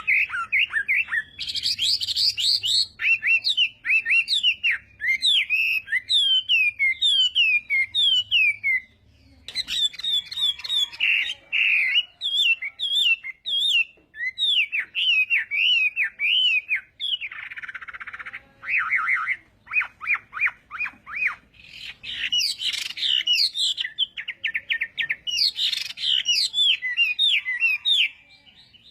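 Chinese hwamei (hoạ mi) singing a long, varied song of rapid repeated downslurred whistles and trills, with a short pause about nine seconds in.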